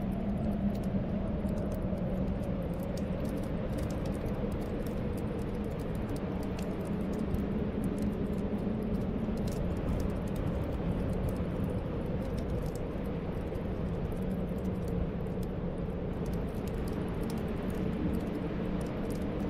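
Snowstorm wind blowing steadily with a low, wavering whistle, over a fireplace crackling in many small, irregular clicks.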